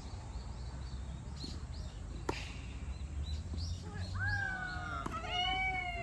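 A tennis racket strikes the ball once, a sharp pop about two seconds in, over faint high chirps. From about four seconds in comes a long high call that slides slowly down in pitch.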